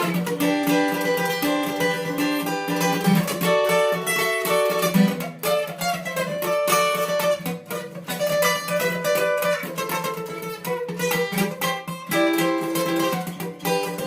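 Guitar playing an instrumental break in a song, a steady run of plucked notes with no singing.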